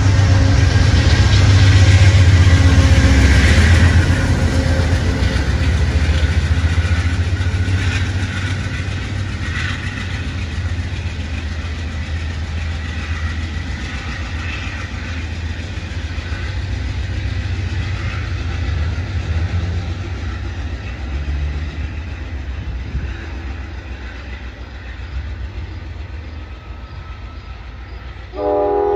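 Amtrak passenger train of Amfleet coaches running past on the rails and pulling away, its low rumble loudest at first and slowly fading as it recedes. Near the end a train horn starts to sound.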